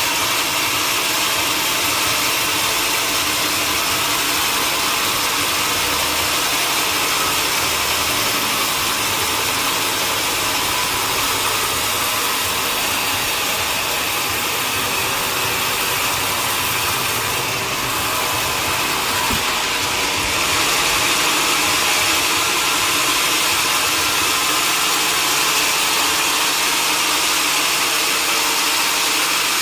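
Sawmill machinery running with a steady, loud mechanical noise that holds unchanged throughout.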